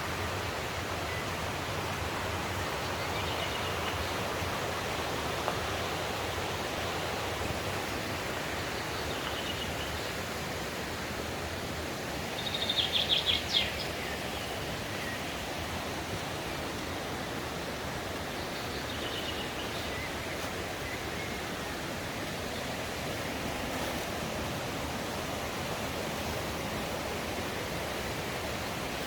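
Mountain stream rushing steadily, with a few short high bird calls over it and a louder rapid run of calls about halfway through.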